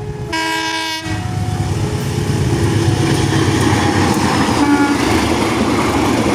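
CC201 diesel-electric locomotive sounds one short horn blast about half a second in. It then passes close with its engine rumbling and the wheels of its passenger coaches clattering on the rails, growing louder as it goes by.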